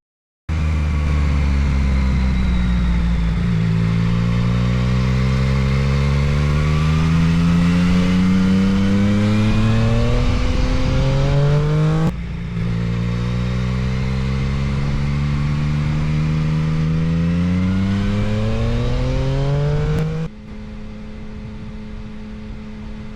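Yamaha Tracer 900's three-cylinder engine accelerating hard, its pitch climbing steadily through the revs, dropping about twelve seconds in and climbing again. About twenty seconds in it settles to a quieter, steady engine note.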